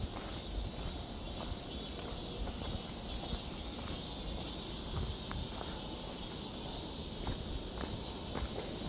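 Irregular footsteps or snapping twigs on a forest floor over a steady, high-pitched chorus of insects.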